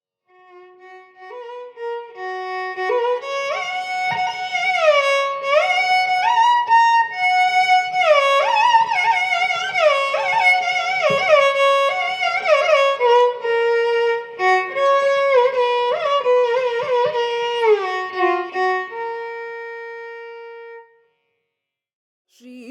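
Solo violin playing a Carnatic melody, a single line full of sliding ornaments between notes. It settles on a long held note that fades out, leaving a brief silence near the end.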